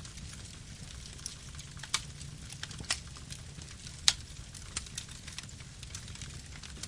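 Campfire burning: a steady low rumble of flames with sharp, irregular crackles and pops of burning wood, the loudest pop about four seconds in.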